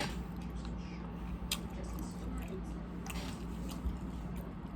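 Person chewing a mouthful of soup with gnocchi dumplings, with a few sharp mouth clicks about a second and a half apart over a steady low hum.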